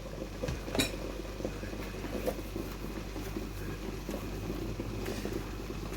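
Soft handling sounds of cornmeal dumpling dough being kneaded and rolled between the hands, over a steady low hum, with a sharp knock about a second in and a few lighter ones later.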